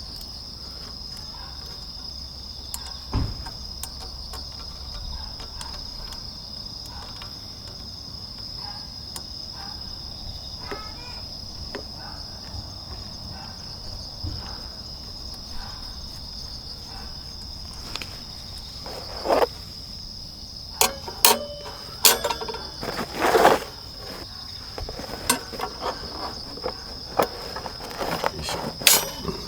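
Crickets chirping in a steady high trill. In the second half, a run of sharp knocks and clinks from camp gear being handled.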